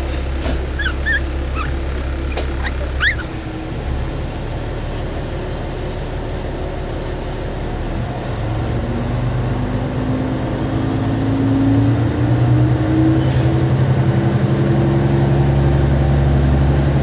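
Single-car diesel railcar's engine heard from inside, idling with a low hum, then revving up with a rising drone about halfway through as the train pulls away. A few short high chirps sound in the first few seconds.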